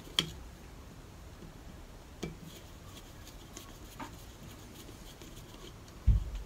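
Quiet workbench handling: a few light clicks and taps of tools and small parts of the starter generator being handled, then a dull low thump near the end.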